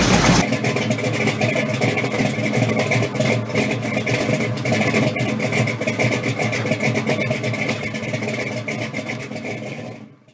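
Car engine idling with a fast, even beat, fading out near the end.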